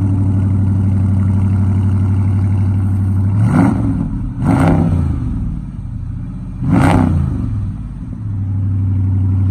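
Dodge Charger's engine idling through its exhaust and revved in three quick throttle blips, about three and a half, four and a half and seven seconds in. Each blip rises and falls back to idle.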